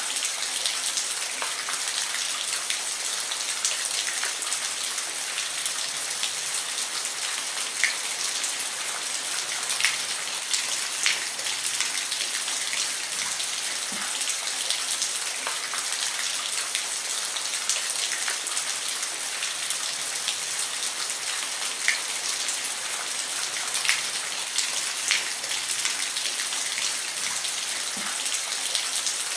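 Steady rain falling on a roof: a dense, even hiss with single drops landing sharply now and then.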